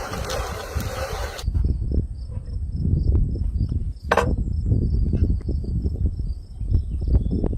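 Insects, likely crickets, chirping steadily in the background, over a low uneven rumble with soft knocks. A hiss stops abruptly about a second and a half in, and there is one short sharp noise about four seconds in.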